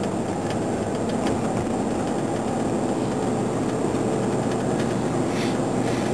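Steady in-cabin engine and road noise of a car driving, with a constant low drone.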